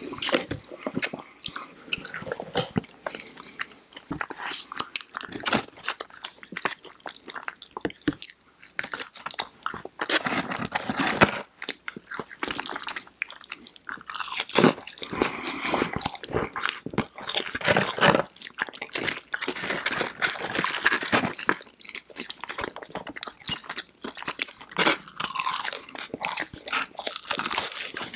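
Close-miked chewing and crunching of fried chicken fingers and crinkle-cut fries, a dense run of quick crisp crackles and bites.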